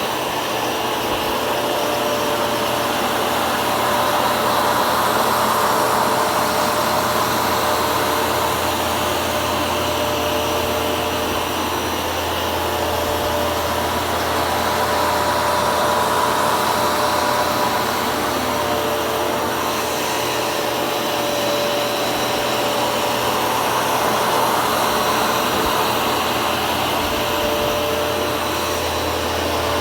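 Hoover carpet shampooer running: a loud, steady motor and suction whine with several held tones, swelling and easing gently in loudness.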